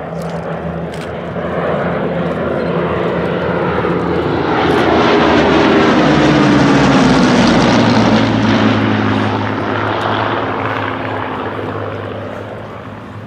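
Rolls-Royce Merlin V12 engine noise of Hawker Hurricane fighters in a flypast. It grows louder over the first several seconds and peaks about seven seconds in, where the engine note drops in pitch as they go by, then fades away.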